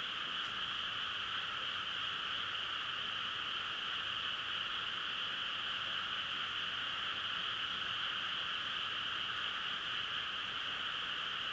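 Dense chorus of many frogs calling together, blending into one steady, unbroken trill that does not rise or fall.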